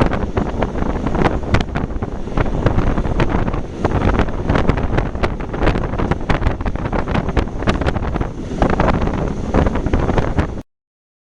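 A passing historic train of old 'Centoporte' carriages: dense, irregular clicking and rattling of wheels over the rails over a steady rumble, with wind buffeting the microphone. The sound cuts off suddenly near the end.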